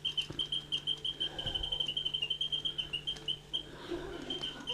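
Wind-up mechanical singing bird, its bellows-driven whistle chirping: a rapid run of short, high chirps, several a second, running faster in places, with a brief pause a little before the end.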